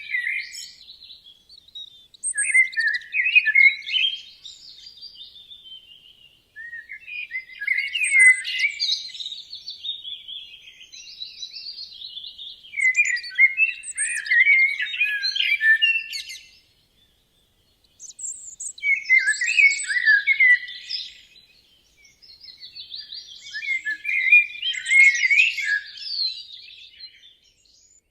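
A songbird singing: five long, warbled phrases of a few seconds each, with short pauses between them.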